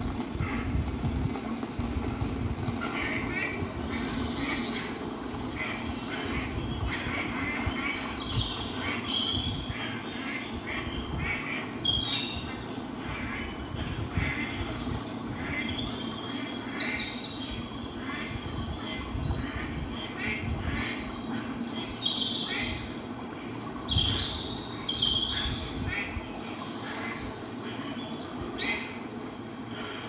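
Small birds chirping: short, high calls repeated about once a second, with louder bursts now and then, over a steady low rumble of background noise.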